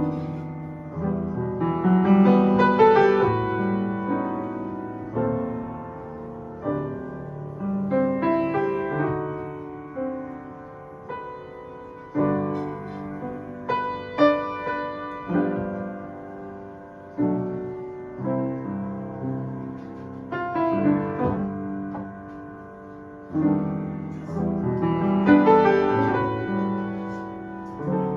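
Solo piano music: notes and chords struck one after another and left to ring and fade.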